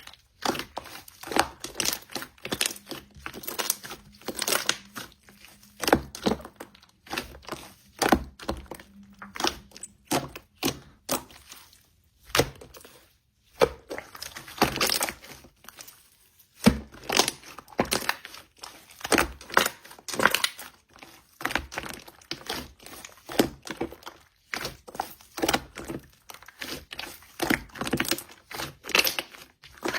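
Hands playing with slime: an irregular run of crackling, crinkling pops as the slime is pressed, folded and stretched.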